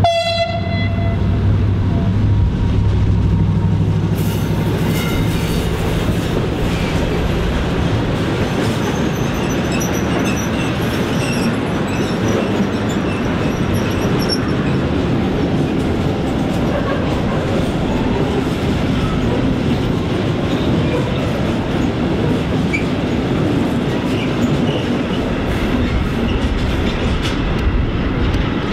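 Freight train of covered wagons rolling past, wheels clattering over rail joints and points, with a faint high wheel squeal partway through. A short horn-like tone sounds in the first second, and a low steady hum fades out after about four seconds.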